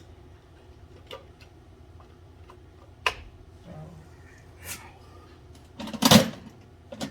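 Scattered knocks and clatter of hand tools and metal parts being handled during a boiler service, loudest about six seconds in, over a low steady hum.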